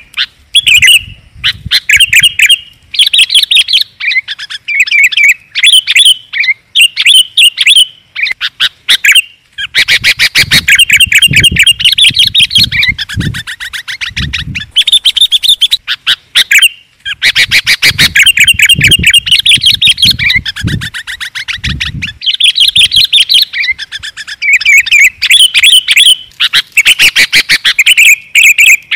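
Sooty-headed bulbuls (kutilang) calling loudly, a continuous string of quick chattering chirps and rapid trills in short bursts with brief pauses between. It is a lure or master recording for songbirds.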